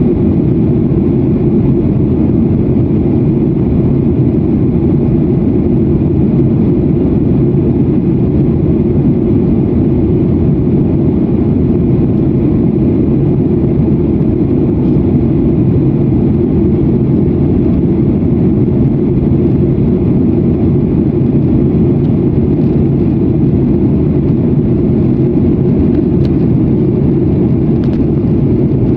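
Steady low rumble of jet airliner cabin noise, the engines and airflow heard from a passenger seat during the climb after takeoff.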